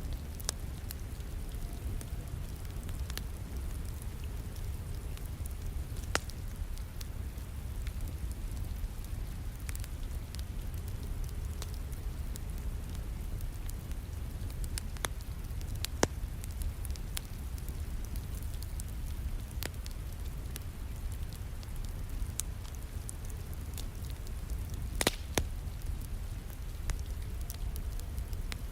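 Wood fire crackling in a fireplace, with scattered sharp pops and snaps, a few louder ones near the middle and toward the end. Underneath is a steady low rumble of falling rain.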